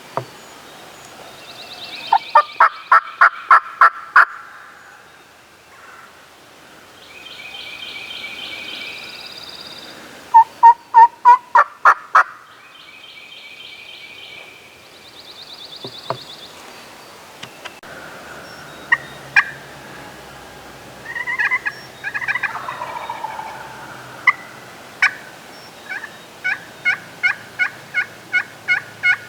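Turkey calling: several runs of loud, evenly spaced yelping notes, about four a second, with softer raspy calls between them and a long run near the end.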